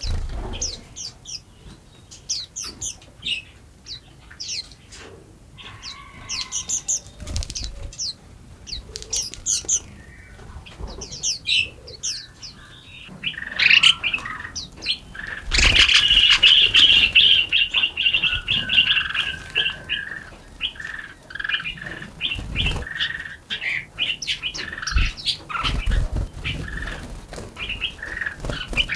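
Small songbirds chirping: quick, high chirps in the first half, then a louder, denser run of chattering song from about halfway on. A few brief low thumps are mixed in.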